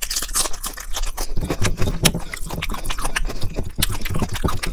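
Close-miked wet chewing of a mouthful of soft dal and rice mixed with paneer, made up of many quick, irregular mouth clicks and smacks.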